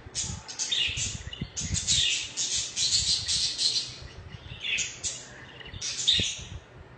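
Budgerigars (budgies) chattering and warbling in rapid, high-pitched chirps, with a long unbroken run of song in the middle and shorter bursts near the end.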